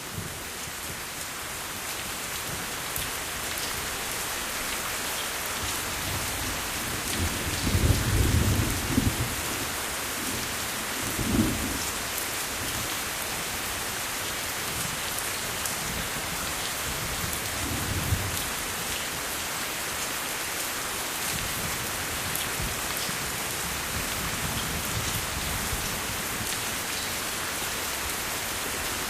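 Steady heavy rain with rumbles of thunder, the loudest about eight seconds in and smaller ones a few seconds later and near the middle.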